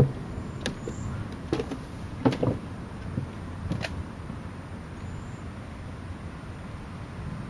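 Thunderstorm ambience after a thunderclap: a steady low rumble, with a few sharp ticks in the first four seconds.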